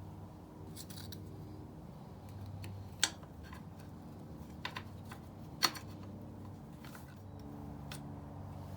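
Light clicks and taps of tools and metal parts being handled, a few sharp ones with the two loudest about three and five and a half seconds in, over a faint steady hum.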